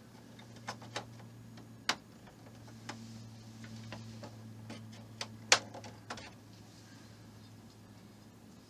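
Small plastic model-kit parts being handled and fitted, giving scattered light clicks and taps, with a sharper click about two seconds in and the loudest about five and a half seconds in.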